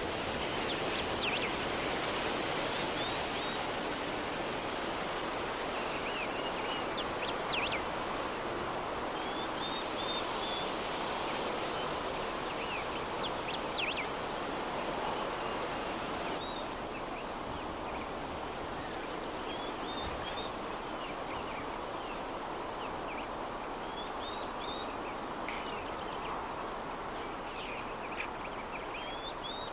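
Soft breeze: a steady, even wind hiss, with brief high bird chirps every few seconds.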